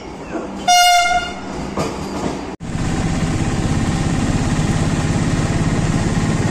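Train horn sounding one short blast. After an abrupt cut, the steady rumble of a moving train.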